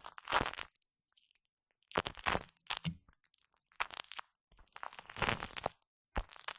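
Shaving foam squished and worked right against a Blue Yeti microphone: about five short, sticky, noisy bursts with silent gaps between them.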